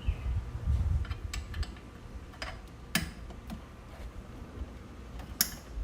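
Tools and metal regulator fittings being handled: low knocks in the first second or so, then a handful of sharp, separate metallic clicks and taps, the loudest about three seconds in and near the end.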